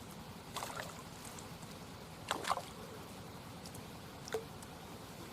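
Steady rush of fast-flowing river water, with three short sharp sounds about half a second, two and a half and four and a half seconds in.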